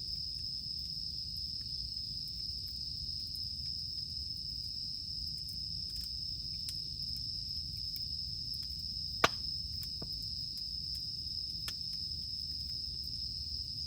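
Cicadas droning steadily on one high pitch over a crackling wood campfire. The fire gives scattered small snaps and one loud pop about nine seconds in.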